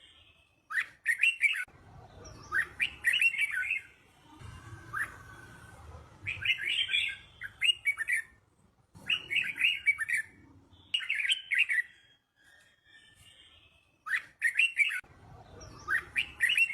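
Red-whiskered bulbul singing: a run of short, quick warbled phrases, one after another with brief pauses between, the song kept bulbuls are trained on.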